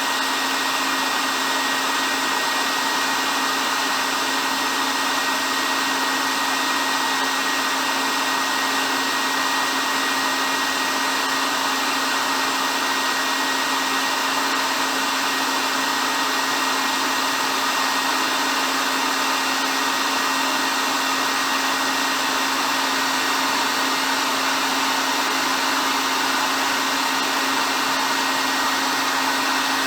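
Hair dryer running steadily: an even rush of blown air with a constant motor hum and a faint steady whine, no change in speed.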